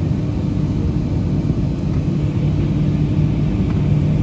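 Steady low rumble and hum of a Boeing 737-700's CFM56-7B jet engines running, heard inside the passenger cabin.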